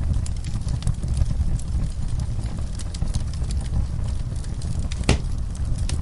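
Wood fire crackling in a fireplace: scattered small clicks and snaps, with one louder pop about five seconds in, over a steady low rumble.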